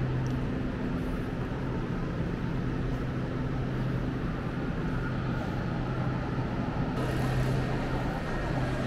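Steady low mechanical hum with a constant droning tone, from a parked passenger train standing at the platform. About seven seconds in, a little more hiss comes in.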